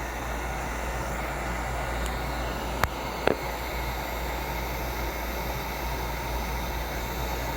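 A fan running steadily, a whooshing hiss over a low hum, with two short clicks about three seconds in.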